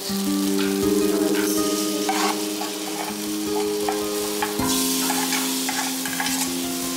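Food sizzling in an aluminium pan while a metal spoon stirs and scrapes through it. About four and a half seconds in, more is poured in from a second pan and the sizzle grows louder. Soft background music with held notes plays underneath.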